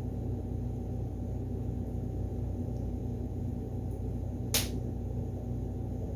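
Steady low hum, like a room air conditioner or fan running, with one sharp click about four and a half seconds in.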